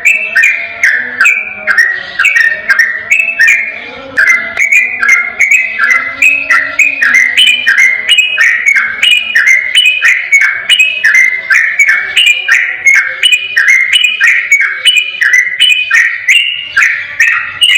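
Yellow-vented bulbul (trucukan) singing a fast, unbroken run of short liquid notes, about three a second, with no pauses.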